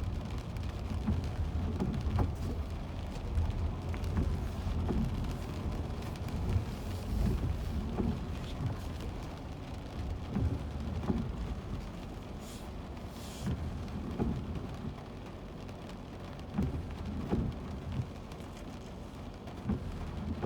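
A car driving in rain, heard from inside: a steady low rumble of tyres and rain, with a hiss of water and irregular soft thumps.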